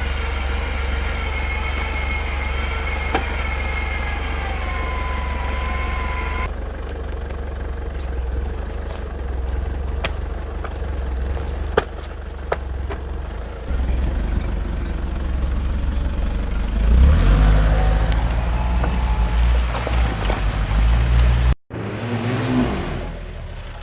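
Off-road vehicle engine running under load and revving, the revs rising and falling as it pushes on. The sound breaks off abruptly about three quarters of the way through, then resumes.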